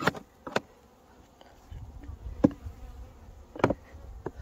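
Honeybees buzzing at a hive entrance, the sign that the colony is alive, with several sharp knocks, the loudest about two and a half seconds in.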